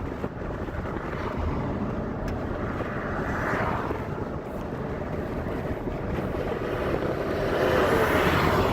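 Car driving at low speed: steady road and engine noise heard from inside the car, swelling twice, about three seconds in and again near the end.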